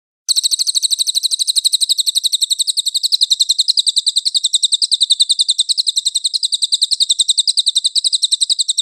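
A songbird giving a long, harsh, rapid-fire burst of identical high notes, about ten a second, beginning abruptly just after the start and cutting off at the end: a 'tembakan kasar' of the kind used as masteran song material for cage birds.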